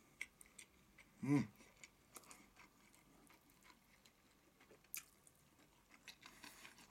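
A man chewing a mouthful of rice and stir-fried taro, with faint wet mouth clicks throughout. A short hummed "mm" comes about a second in, and there is one sharp click near five seconds.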